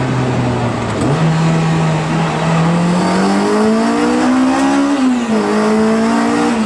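Honda Integra Type R DC5's K20A four-cylinder engine accelerating hard, its pitch climbing steadily, then dropping sharply at a gear change about five seconds in and climbing again.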